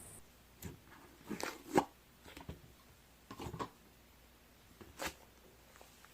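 A few faint, irregular clicks and taps, spaced unevenly about a second apart, the loudest near the start and again about five seconds in.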